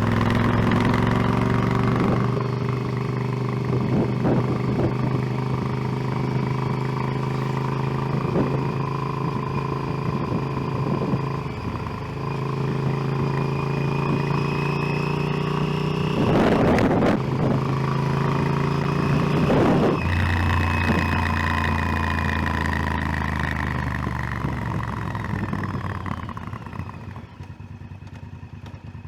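Motorcycle engine running on the move, its note jumping to a new pitch a few times as it changes gear, with a couple of short knocks partway through. Near the end the engine sound drops away.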